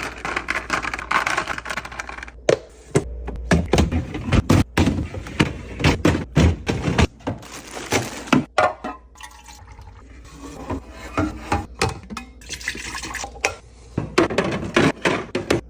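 Liquid being poured into containers, with many sharp clicks and knocks of containers and lids being handled.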